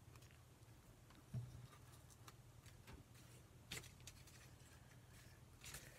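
Near silence over a steady low hum, with a few faint clicks and light ticks of paper postage stamps being handled and a soft knock about a second and a half in.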